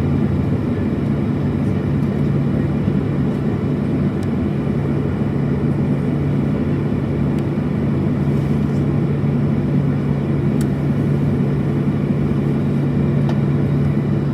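Cabin noise inside a Boeing 737-700: its CFM56-7B jet engines running at a steady setting, a constant low hum under a hiss of airflow, without rising or falling.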